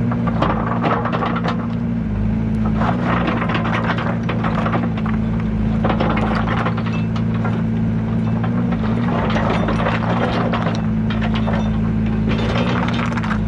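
Yanmar ViO80 mini excavator's diesel engine running steadily under work, with irregular clattering and knocking from the machine and its load as it moves.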